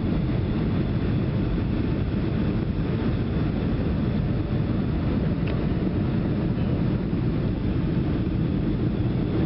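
Steady low rumble inside the cabin of a Boeing 757 airliner during landing: engine and airflow noise at an even level.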